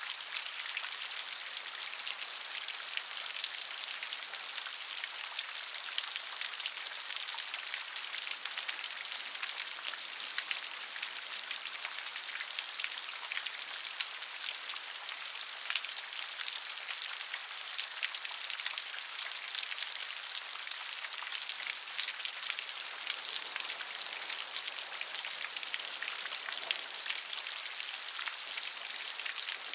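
Steady rain, a dense hiss of many fine drop ticks, mostly high-pitched with little low end.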